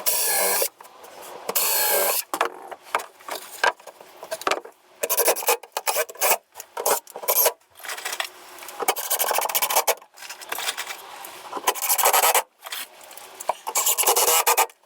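Wood being worked by hand with an abrasive tool, scraping in a series of uneven back-and-forth strokes with brief pauses between them.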